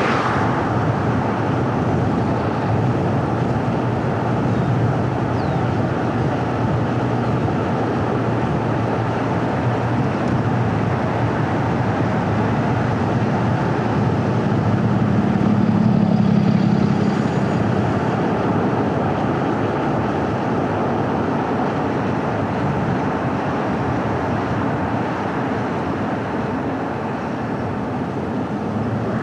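Steady road noise of a car being driven: engine and tyre rumble, swelling briefly about halfway through.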